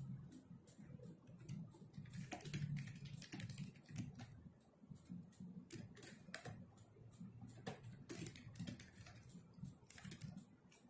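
Computer keyboard typing: a faint, irregular run of keystroke clicks.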